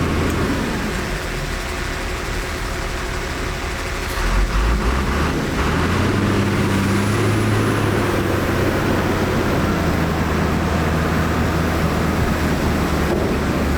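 Heavy diesel engine of earthmoving machinery running under load; it grows louder about four seconds in.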